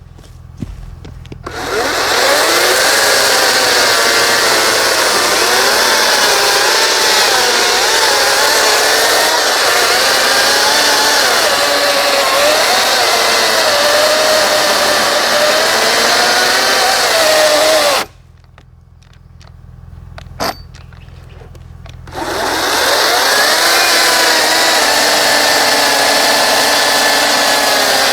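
Ryobi 40V HP brushless cordless chainsaw cutting into a large log, its motor and chain whine wavering and sagging in pitch under load. About two-thirds of the way through it cuts out abruptly, then starts again after a few seconds' pause. The user takes the cutting out for the motor overheating and going into protection mode.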